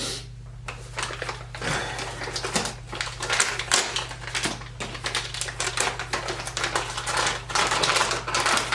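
RC truck wheels and parts being handled on a workbench: rapid, irregular clicking and clattering, over a steady low hum.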